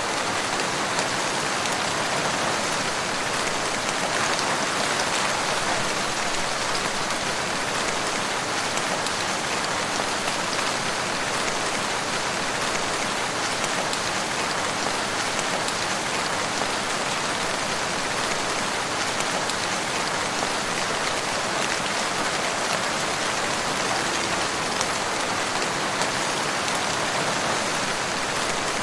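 Steady rain pattering on a surface: a dense, even hiss of drops that holds at a constant level.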